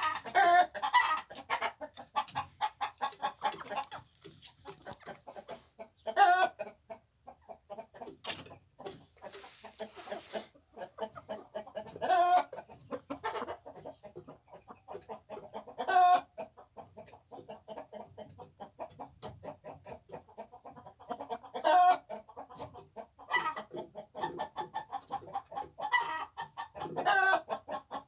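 Chickens clucking steadily, with a loud squawking call standing out about every four to six seconds.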